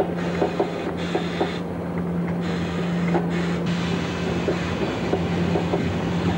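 Freight train rolling along the track: wagon wheels knocking irregularly over the rail joints above a steady low hum and the rushing of the wheels on the rails.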